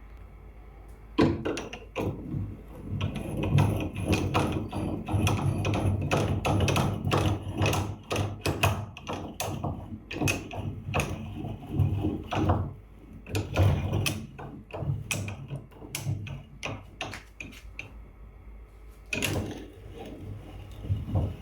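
Bench vise parts being handled and worked: irregular knocks and clunks, several a second, starting about a second in, with a short pause near the end.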